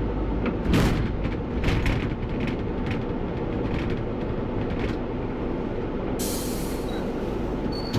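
A bus running, heard from the driver's cab: a steady engine and road drone with several knocks and rattles in the first five seconds. About six seconds in comes a hiss of compressed air from the bus's air system that lasts about a second and a half.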